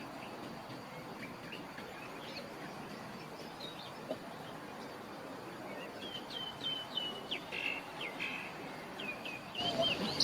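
Small birds chirping over a steady outdoor background, the chirps growing into a quick run of short, high calls in the second half. A louder sound starts just at the end.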